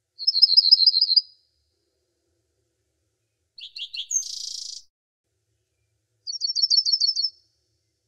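A songbird calling: a short, fast trill of about eight notes near the start, a harsher rasping call about halfway through, and another fast trill near the end.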